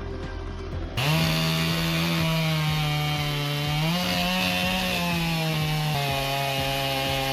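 Two-stroke chainsaw running at high revs under load, starting abruptly about a second in. It holds a steady note that rises slightly about four seconds in and drops back about two seconds later.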